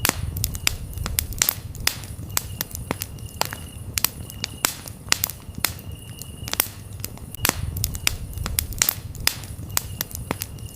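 Campfire crackling, with frequent sharp pops and snaps over a low, steady rumble of flames. Crickets chirp in short high trills every second or two.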